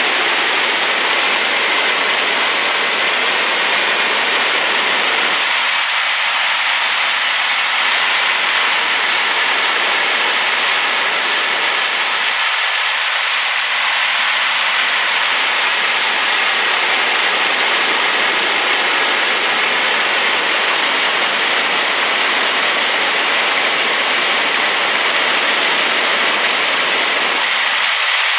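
Waterfall swollen by rain, a loud, steady rush of falling water.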